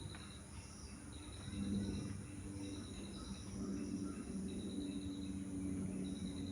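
Outdoor birds and insects: a short, high trill repeats about every second and a half over a steady high hiss, with a low steady hum underneath.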